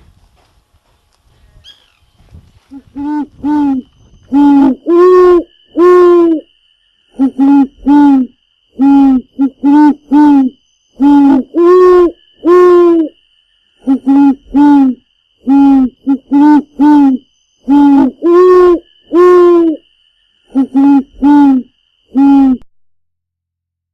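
White woodpecker giving loud, nasal calls in repeated phrases of about four notes, two short lower ones followed by two longer, higher ones, repeating every few seconds.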